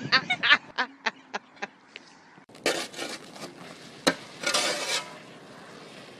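A person's laughter trailing off, then a few seconds of rough scraping and clattering noise with one sharp knock.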